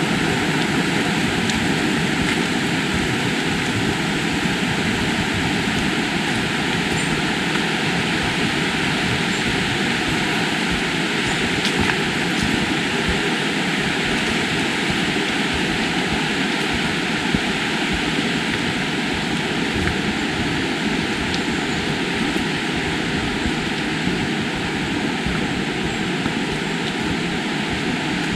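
River water rushing: a steady, even noise of flowing water with no change in level.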